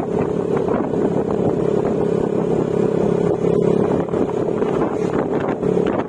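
Yamaha Mio Gravis scooter's single-cylinder engine running at a steady cruising speed through an aftermarket Akrapovic exhaust with silencer, with wind noise on the microphone.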